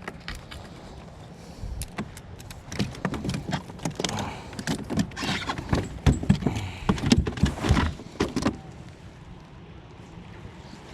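Irregular knocks and rattles of a just-landed bass and fishing tackle being handled in a kayak, dense for about eight seconds and stopping near the end, leaving a faint steady hiss.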